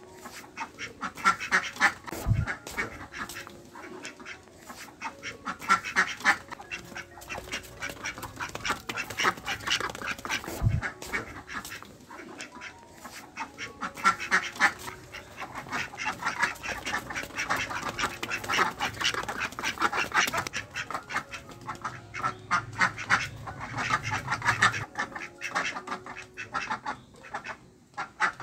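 Ducks quacking in quick runs of calls, bout after bout every few seconds.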